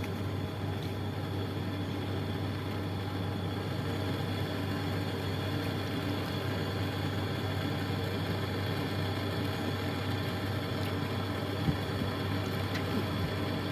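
Steady hiss of a brazing torch flame on copper air-conditioning pipe, over a constant low hum, with one sharp click about two-thirds of the way through.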